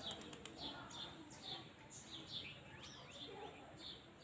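Small birds chirping busily, short falling chirps repeating several times a second, over faint outdoor background noise.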